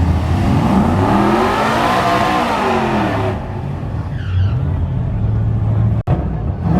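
A truck engine revs up to a peak and back down over about three seconds under a loud rushing noise, then settles to a low rumble. The sound cuts out for an instant near the end.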